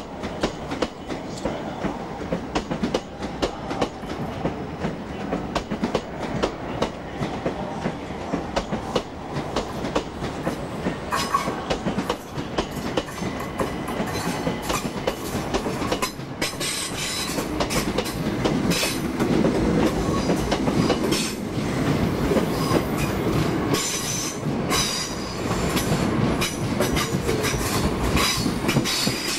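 Multiple-unit passenger train running into a station platform, its wheels clicking over rail joints and the noise growing louder as the carriages draw alongside.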